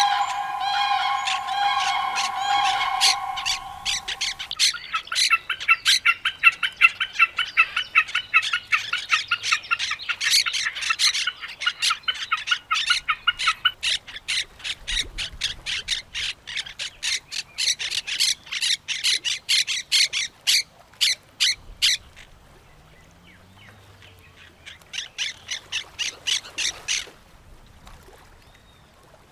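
Birds at a pond calling, with parrot-like squawks. A held call opens, then a fast run of repeated squawking notes gives way to sharp chirps. After a lull, a short burst of calls comes near the end.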